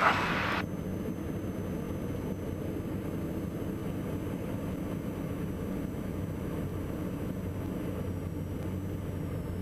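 Steady low drone of the Diamond DA42 NG twin's diesel engines at low power in the cockpit, with a faint thin high whine, just after touchdown on the landing roll.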